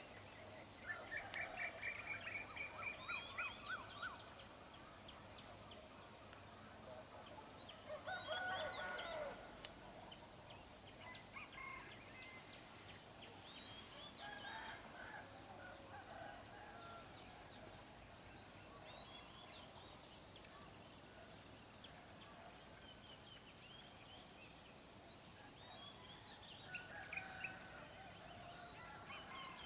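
Faint birds calling, with a rapid run of repeated notes in the first few seconds and a louder burst of calls about eight seconds in, then scattered chirps. A steady high-pitched tone runs underneath.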